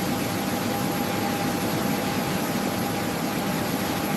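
Aircraft turbine engines running steadily: a constant roar with a steady high whine over it.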